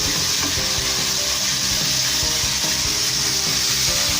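Marinated chicken pieces sizzling steadily as they fry in hot oil in a pan, a constant bright hiss.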